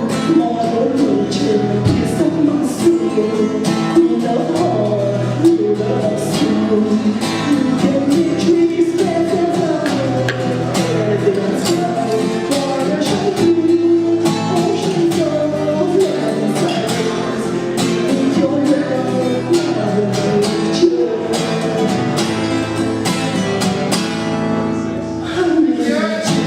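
Singing with acoustic guitar accompaniment, performed live.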